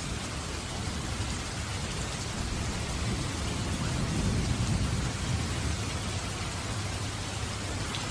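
Steady rain, with a low roll of thunder that swells about three seconds in and fades away over the next few seconds.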